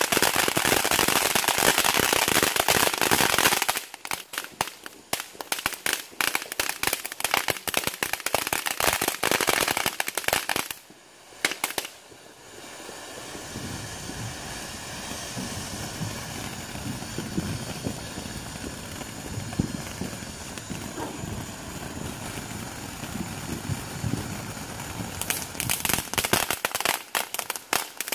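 Ground fountain fireworks going off. A loud, dense hiss for about the first four seconds turns into rapid crackling that lasts to about ten seconds in. After a brief dip there is a softer stretch, and rapid crackling starts again near the end.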